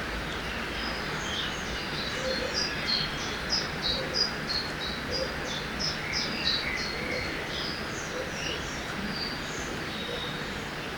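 Steady rushing of a river with a songbird singing a long run of short, high chirped notes over it. The song starts about a second in, is loudest in the middle and trails off after about seven seconds.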